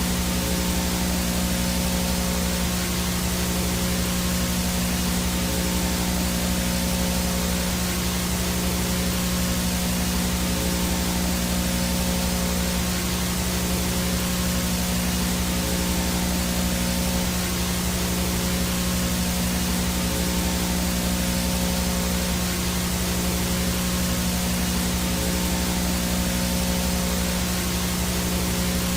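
VHS static: a steady hiss from a VHS signal with interference, with a constant low electrical hum and faint steady tones under it.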